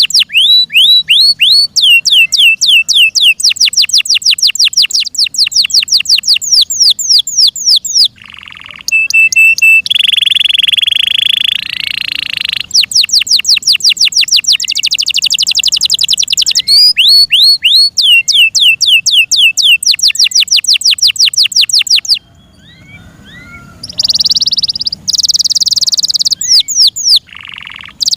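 F1 Yorkshire canary singing: long fast trills of rapidly repeated downward-sweeping notes, broken by a held whistled roll and two short pauses, about a third of the way in and near three-quarters through.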